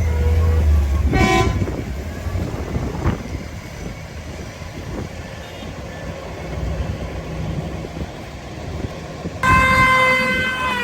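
A heavy vehicle's engine rumbles, then drops away after about a second, leaving quieter traffic noise. Near the end a loud horn starts suddenly and holds one steady note.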